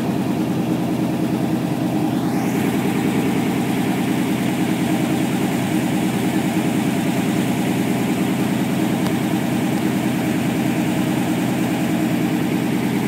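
Fire engine's engine idling with a steady, even hum.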